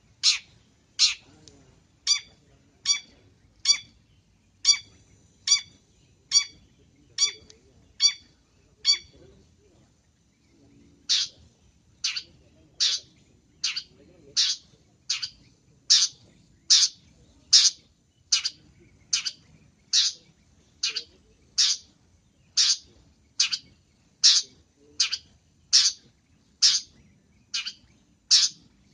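Long-tailed shrike (pentet) repeating a short, sharp call a little more than once a second, with a break of about two seconds roughly a third of the way in. It is a lure call used by bird catchers to draw in pentet.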